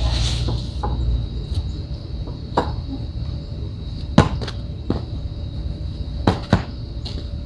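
Sharp clicks and knocks of patio pavers being handled and set in place, a handful at irregular intervals, the loudest about four seconds in, over a low rumble.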